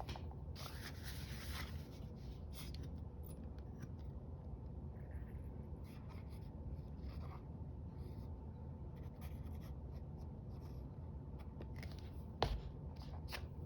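Paper rustling and scratching as paper pieces are handled at a craft table, with one sharp tap about twelve seconds in.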